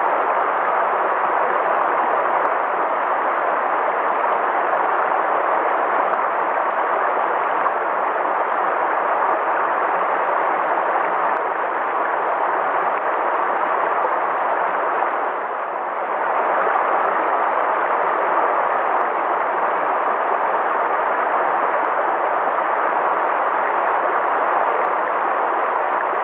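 Steady rushing of a flowing river, an even wash of water noise with a brief slight dip about two thirds of the way through.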